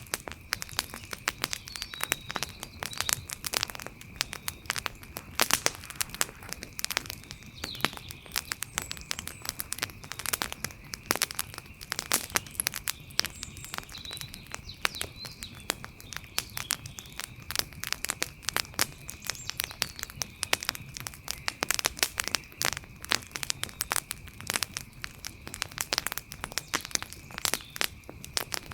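Wood fire crackling, with dense, irregular pops and snaps. Behind it runs a faint steady high-pitched tone, with a few faint chirps.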